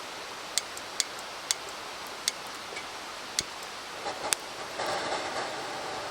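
Wood campfire crackling, with about six sharp, irregular pops over the steady rush of a mountain stream, and a brief louder rustling hiss about five seconds in.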